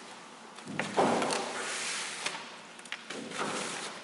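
A blade prying at an iPhone 4's glued-in battery: a knock about a second in, followed by scraping, then a few light clicks of metal on the phone.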